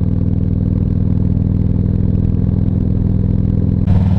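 Harley-Davidson Ultra Classic's V-twin engine running steadily under load on a climb, heard from the saddle. Near the end the sound turns abruptly louder and brighter, with more wind and road noise.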